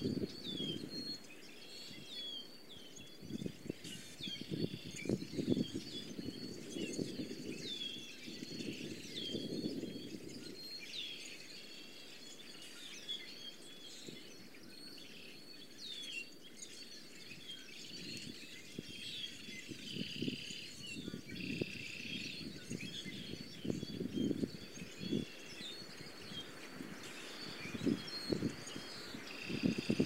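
Many small birds chirping and calling in short, high notes, with bursts of low rumbling noise near the start and again near the end.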